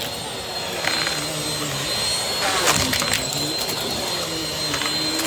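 Vacuum cleaner running, with a steady high whine over its airflow noise. Its lower motor pitch repeatedly dips and recovers as it is pushed back and forth quickly, with a few clicks.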